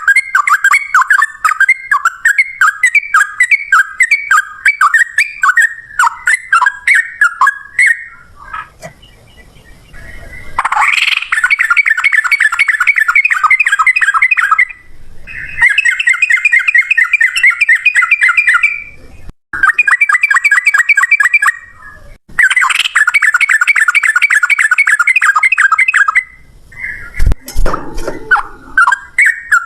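Yellow-vented bulbul (trucukan) singing its rapid rolling 'ropel' song: long runs of fast, chattering repeated notes, a few seconds each with short breaks between. There is a brief low thump near the end.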